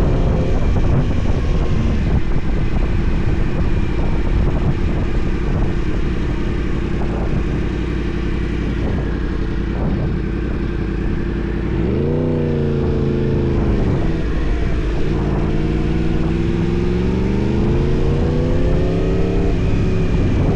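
Yamaha R1 sport bike's inline-four engine running under way over steady wind noise. About twelve seconds in it revs up briefly and falls back. From about fifteen seconds the pitch climbs steadily, then drops suddenly near the end, as at a gear change.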